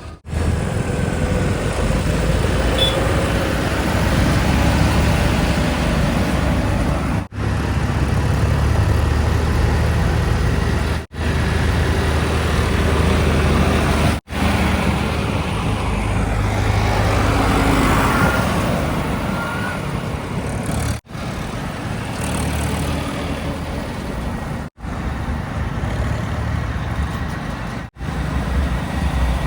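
Heavy diesel engines of earthmoving machinery and tipper trucks running under load. The sound is strongest low down and is heard as a series of short clips with abrupt cuts between them.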